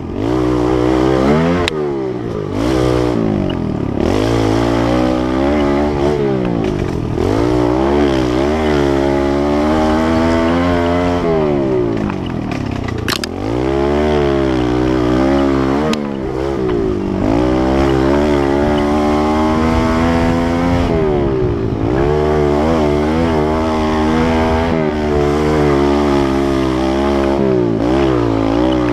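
Kawasaki KLX110L pit bike's small single-cylinder four-stroke engine being ridden, its pitch rising and falling over and over as the throttle is opened and closed. There is a sharp click about halfway through.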